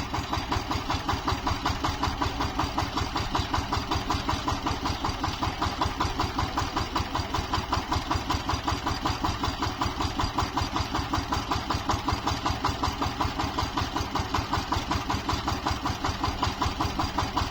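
Tractor engine idling steadily with an even, regular pulsing beat, about four to five beats a second.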